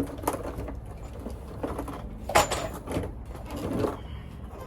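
Scattered metal clanks and knocks from handling tools and driveshaft parts, the loudest about two and a half seconds in with a brief metallic ring.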